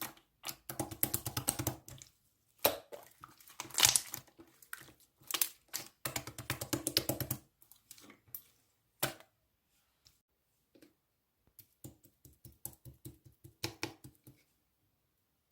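Slime being squeezed and poked by hand, giving rapid crackling, clicky pops in bursts. The bursts thin out and stop briefly partway through, then come back as a run of regular clicks.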